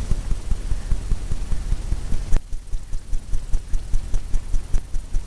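Quick, even thumps, about five a second, of a painting tool tapping against a stretched canvas, with one sharp click about halfway through.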